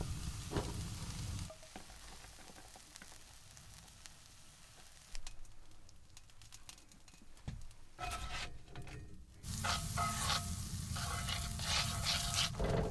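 Burrito filling of scrambled eggs, rice and beans sizzling in a frying pan as it is stirred, with a utensil scraping and clicking against the pan. The sizzle drops low for several seconds in the middle, then comes back louder with more scraping near the end.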